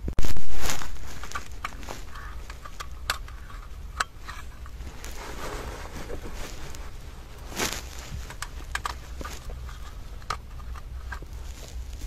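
Scattered small clicks, taps and light scraping, as of hands handling small parts and tools during a repair. It opens with a loud sudden noise that fades away over about a second.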